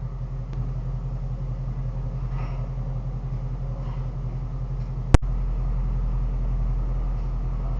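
Shelby GT350's V8 engine running with a low, pulsing rumble that slowly grows louder. A single sharp click comes about five seconds in, after which the deep rumble gets stronger.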